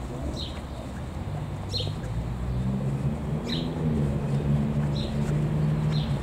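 A small bird chirping, a short falling chirp about once a second, over the low hum of an engine that grows louder from about a second in.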